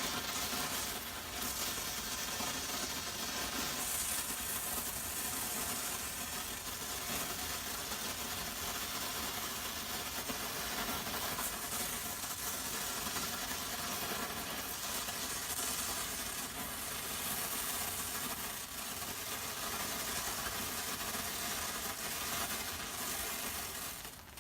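Homemade flare/waterfall tube of potassium nitrate, aluminium and sulfur with added magnesium chips burning with a steady hissing sizzle, which drops away right at the end as the tube burns out.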